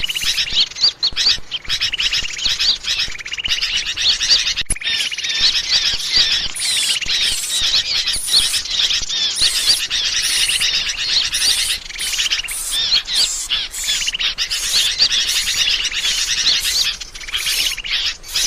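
Bird-lure recording: a dense chorus of small birds chirping and twittering rapidly and without a break, made to attract wild birds.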